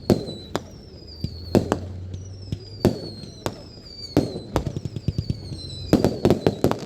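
Fireworks display: a string of sharp bangs and crackling reports, thickening into a rapid cluster about six seconds in, with high whistles falling in pitch, over a low steady hum.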